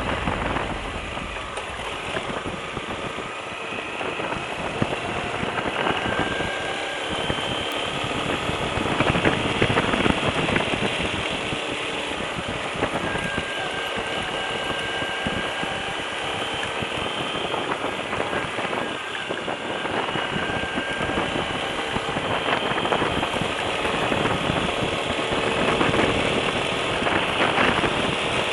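Lifan KPT200 motorcycle engine running, its faint note drifting slowly up and down, under heavy wind noise on the microphone.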